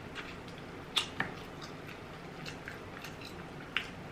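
Close-miked chewing of rotisserie chicken, with a few sharp wet mouth clicks and smacks, the loudest about a second in and near the end.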